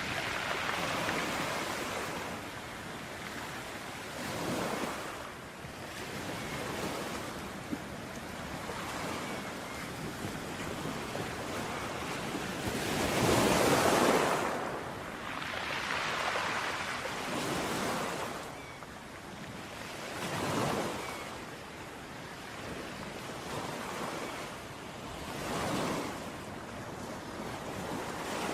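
Ocean waves breaking and washing on a beach, one swell after another every few seconds, with one larger wave about halfway through.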